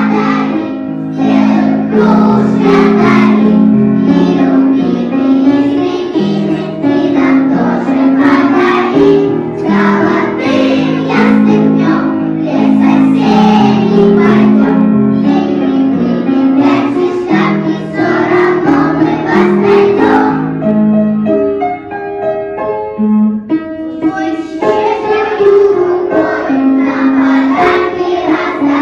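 A group of young children singing a song about autumn in Russian over an instrumental accompaniment. The voices drop out for a few seconds about three quarters of the way through, leaving the accompaniment alone, then the singing comes back.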